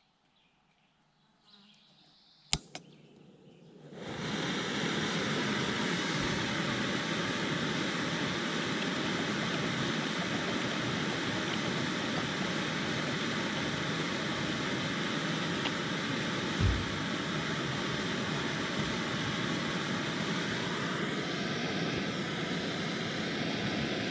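Portable butane camp stove: two quick sharp clicks of the igniter, then about a second later the burner lights and runs with a steady, even rushing hiss, set on low heat while it brings a pot of water to the boil.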